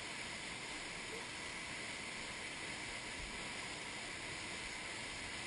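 Steady rushing water, an even unbroken noise with no distinct events.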